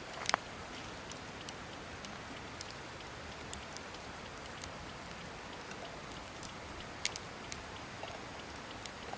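Wood campfire burning: a steady hiss with sparse sharp crackles and pops, the loudest a double pop just after the start and another about seven seconds in.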